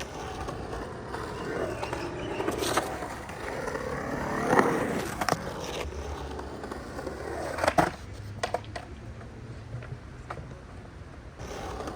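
Skateboard rolling on concrete in a bowl, the wheel noise swelling and fading as it carves, with a few sharp clacks of the board or trucks hitting.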